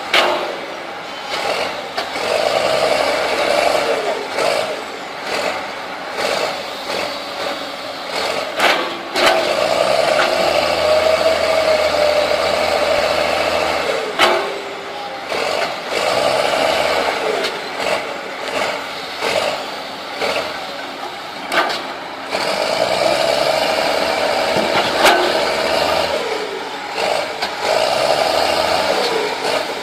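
Heavy diesel engines of an excavator and a crawler bulldozer working under load as they free the bulldozer from mud. The engine note swells and falls again and again, with a few sharp knocks.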